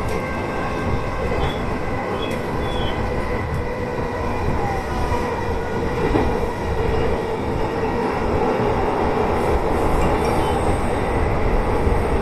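Electric commuter train running along the line, heard from inside the car: steady rolling noise of wheels on rail with a few faint steady tones, and brief faint wheel squeals about two seconds in.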